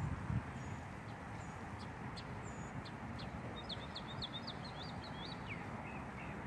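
Small birds chirping in short high notes, with a quick run of chirps about three and a half seconds in, over a steady outdoor hiss.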